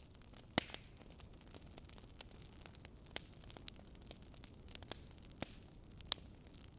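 Fire crackling in a fireplace: irregular sharp pops and snaps over a low steady hiss, the loudest pop about half a second in and another near the end.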